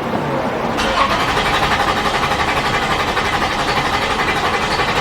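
Starter cranking a 2008 Toyota RAV4's 3.5 L V6 with its ignition coils cut off, so the engine turns over without firing. Cranking begins about a second in and keeps an even, fast pulsing rhythm; the scope test it serves shows good, even compression.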